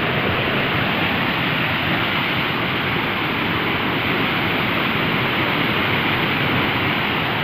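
Water rushing steadily down a stone waterfall, loud and even.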